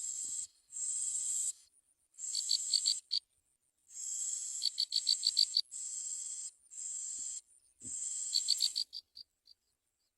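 Bar-winged prinia nestlings begging in the nest: high, hissing, buzzy calls in repeated bouts of about a second each, some ending in a quick run of sharp notes.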